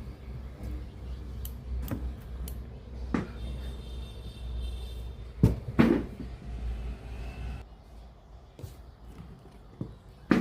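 Scattered clicks and knocks of something being handled, the loudest two close together about five and a half seconds in, over a steady low hum.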